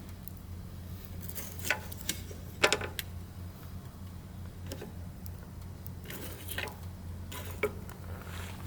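Burning firewood crackling, with irregular sharp pops over a low steady rumble; the loudest pops come a little under two seconds in, just under three seconds in, and near the end.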